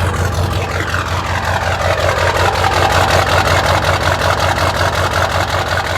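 1997 Ford F-350's 7.3 Powerstroke V8 turbo-diesel idling steadily through a 5-inch exhaust shortly after a cold start, with an even, rapid pulsing.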